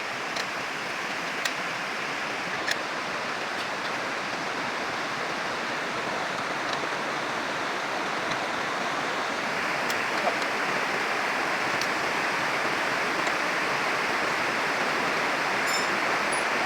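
A steady rushing hiss that starts abruptly and grows slightly louder, with a few faint clicks.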